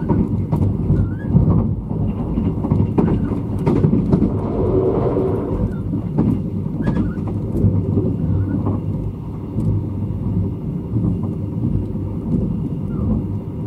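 Running sound inside a State Railway of Thailand sleeper express coach under way. The wheels keep up a steady low rumble on the track, with frequent clicks, rattles and knocks from the carriage and a few short high squeaks.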